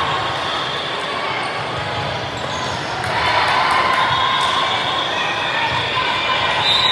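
Echoing gymnasium ambience during an indoor match: a steady murmur of crowd voices with scattered ball and shoe sounds from the court. The crowd noise grows louder about three seconds in.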